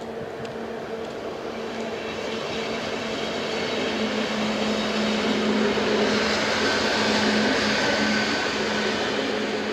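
CityElefant double-deck electric multiple unit passing over a level crossing: the train noise grows louder, peaks about six to eight seconds in, then begins to fade, with a brief high whine at its loudest. A steady low tone from the crossing's electronic warning bells sounds throughout.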